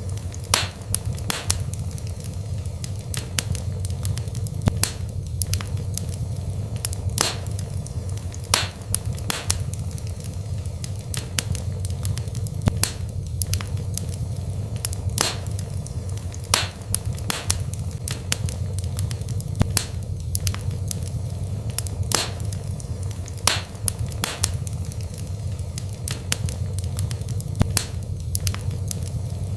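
Burning wood fire crackling, with sharp irregular pops, often one or two a second, over a steady low rumble of the flames.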